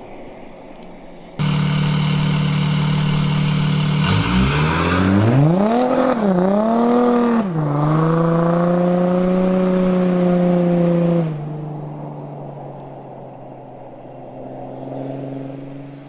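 Audi A7 3.0 TDI V6 diesel with a straight-piped exhaust (no muffler): a steady engine drone jumps abruptly louder about a second in, the revs dip and climb unevenly a few seconds later, then hold steady before the sound drops back to a quieter drone after about eleven seconds.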